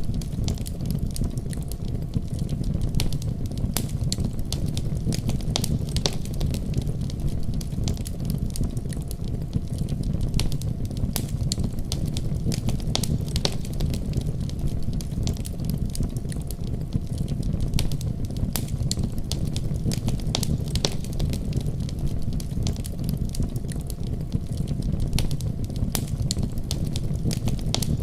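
Wood fire burning in a fireplace: a steady low rumble of flames under frequent sharp crackles and pops.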